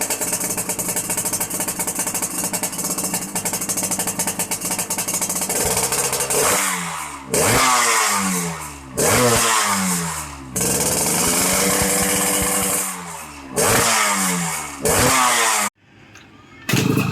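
Motorcycle engine running through a RAS racing exhaust, idling steadily, then revved in about six sharp throttle blips. Each blip falls back toward idle, and one is held for a couple of seconds. The sound cuts off abruptly near the end.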